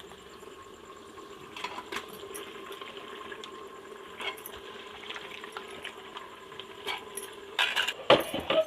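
Raw chicken pieces being added to a pot of frying onion-tomato masala: a steady sizzle with scattered clinks of a utensil against the pot, and a louder clatter near the end.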